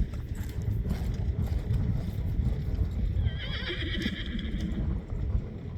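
A horse whinnying once, about three seconds in: a single high, wavering call lasting about a second.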